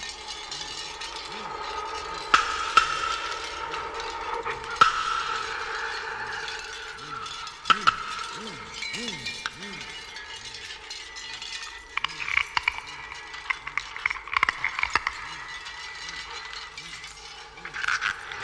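Music played on reconstructed Paleolithic instruments: sparse sharp knocks and clicks, with clusters of rapid clicks later on, over sustained ringing tones and short repeated low swoops.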